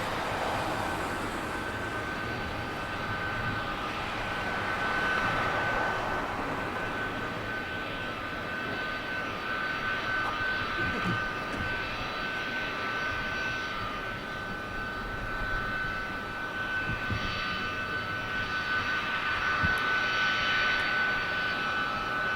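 Boeing 757's jet engines running with a steady whine over a rushing noise.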